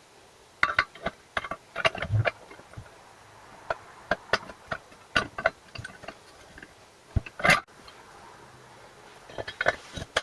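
A string of irregular clicks and light knocks, with a louder knock about seven seconds in.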